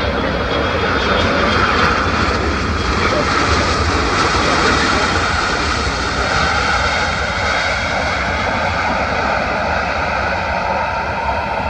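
Jet airliner passing close, the twin GE90 turbofans of an Air Canada Boeing 777-300ER, with a steady loud jet roar and a high engine whine that drifts slowly down in pitch.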